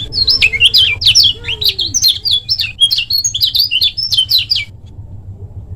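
Kecial kuning, a white-eye, singing a fast, dense run of high chirping, sweeping notes that stops shortly before the end, over a steady low hum.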